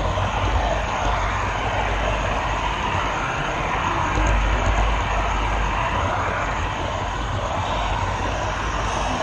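Steady whirring rumble of a model train running on the layout, heard close up from a GoPro camera car riding on the track.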